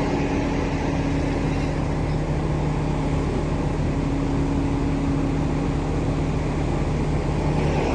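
A motor engine running steadily: a constant low hum with even mechanical noise over it.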